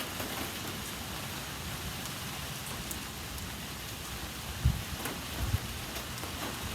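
Steady rain falling on surfaces, an even hiss, with two dull low thumps a little past the middle.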